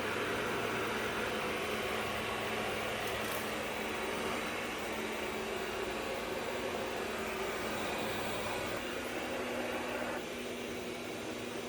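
Roborock robot vacuum running with a steady whirring hum, dropping a little quieter about ten seconds in.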